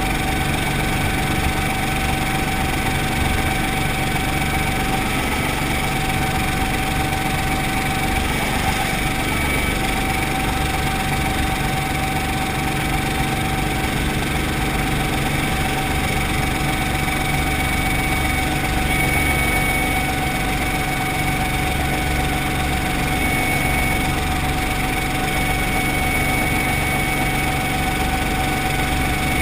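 Brantly B2B helicopter's piston engine and rotor running steadily, a constant drone with a fast low pulsing and a steady whine on top.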